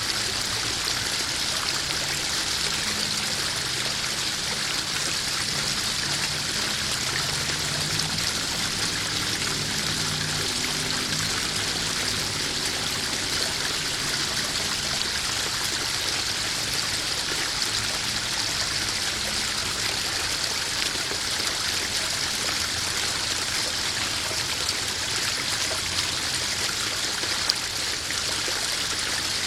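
Small garden waterfall splashing steadily into a koi pond, a continuous rush of running water.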